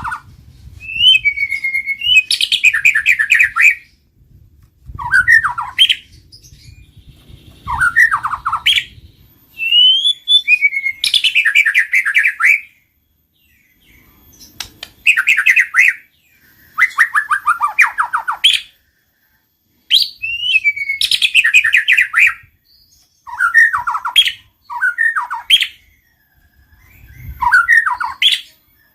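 White-rumped shama calling in repeated phrases every few seconds: short slurred whistles followed by fast rattling trills.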